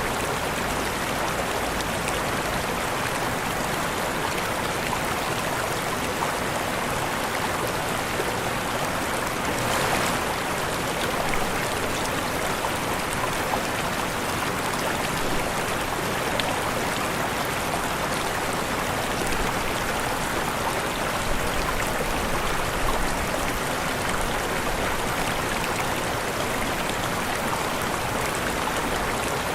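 Waterfall rushing in a steady, even wash of falling water, with slight swells now and then.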